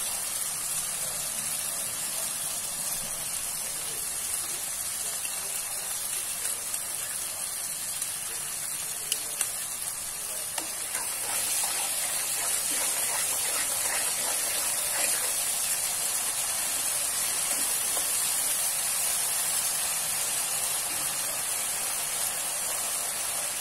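Chili sambal frying in a wok with a steady sizzle. A wooden spatula stirs it, with a few sharp knocks against the pan about nine seconds in; the sizzle grows a little louder from about eleven seconds as the stirring goes on.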